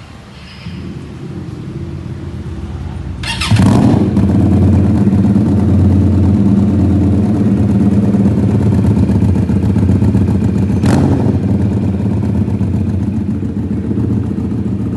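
Benelli Keeway Benda V252C motorcycle engine running through an aftermarket stainless-steel exhaust: quieter for the first few seconds, then a sudden jump about three and a half seconds in to a loud, steady exhaust note. A short sharp click sounds about eleven seconds in.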